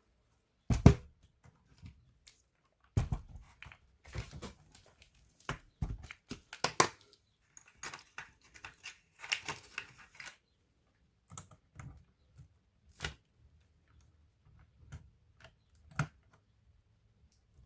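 Irregular clicks, knocks and short scrapes of hands and small tools working on a laptop's plastic case and parts. The loudest knock comes about a second in, and a longer stretch of scraping follows in the middle.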